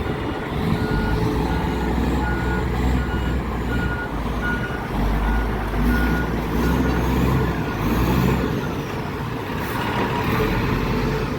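A fire truck's reversing alarm beeping at an even pace over its diesel engine running, as the heavy apparatus backs up.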